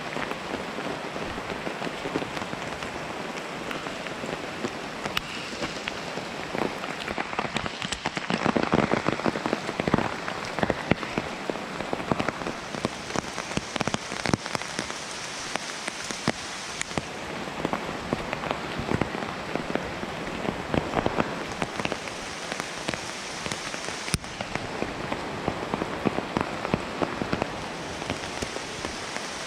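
Heavy rain falling steadily, with many separate drops striking close by. It swells louder for a couple of seconds about eight seconds in.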